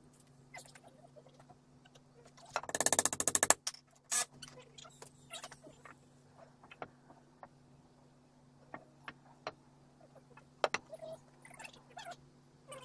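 A power tool runs in one short burst of about a second, then light knocks and clicks of handwork follow.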